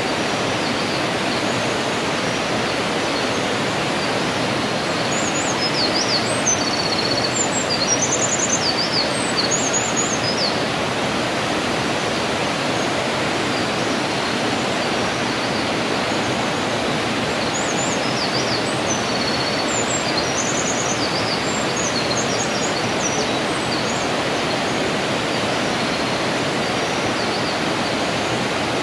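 Mountain gorge stream rushing steadily. Small birds sing in short high chirps in two spells, about five to ten seconds in and again around twenty seconds in.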